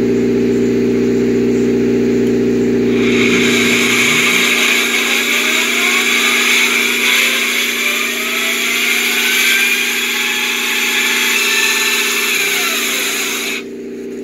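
Concrete saw cutting through a concrete knee-wall: its engine runs steadily, and about three seconds in the blade bites into the concrete, adding a loud high grinding hiss with a wavering whine. The grinding stops abruptly near the end while the engine keeps running.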